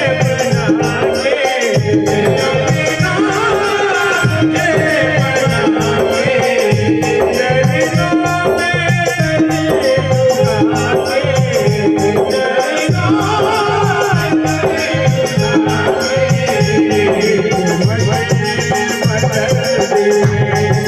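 Indian folk devotional music: a wavering melody line over fast, steady percussion with a shaken rattle.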